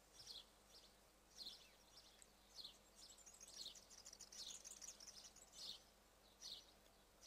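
Faint bird calls: short, high chirps falling in pitch, repeating about once a second over a near-silent background.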